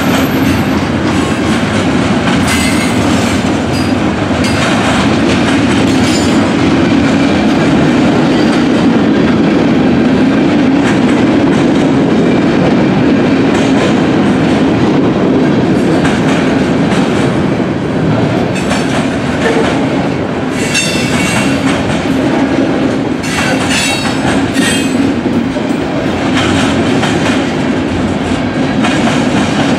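Freight cars of a long mixed freight train rolling past close by: a steady loud rumble of steel wheels on rail with clicking over the rail joints, and a few faint high wheel squeals in the second half.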